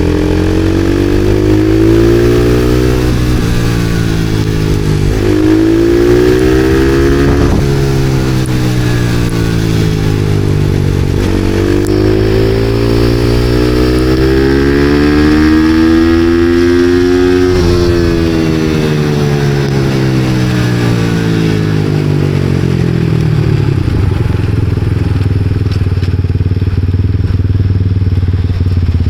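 Supermoto motorcycle engine under way, its pitch climbing under acceleration and falling back as it slows, several times over; near the end it settles to a steady low note.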